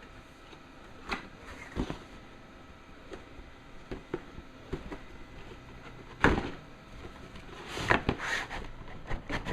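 Model-kit box being handled and opened by hand: scattered light taps and knocks, then louder scraping and rustling about six seconds in and again around eight seconds in.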